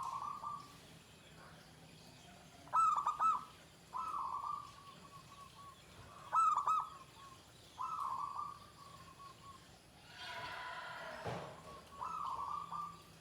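Zebra dove (perkutut) cooing in repeated short phrases, about six in all: several open with a quick, loud three-note stutter followed by a trailing coo. A brief noisier sound breaks in about ten seconds in, between phrases.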